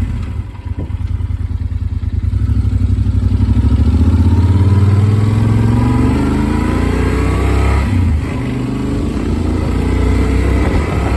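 Motorcycle engine pulling under way: the revs climb for a few seconds, dip sharply at a gear change about eight seconds in, then pull steadily again, heard from a phone mounted on the rider's helmet.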